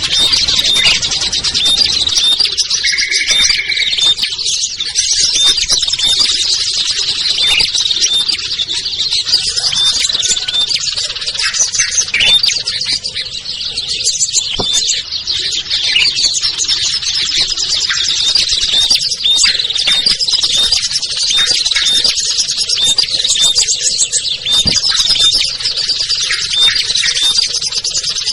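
A dense, unbroken chorus of many small songbirds chirping and trilling at high pitch: a mixed small-bird lure recording of the kind used to call down prinias and bulbuls.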